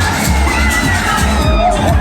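Loud fairground ride music with a steady bass beat, about two beats a second, with riders screaming and whooping over it.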